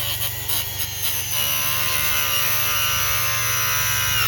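Cordless angle grinder running at speed with a high whine, biting into metal and getting louder and harsher about a second and a half in.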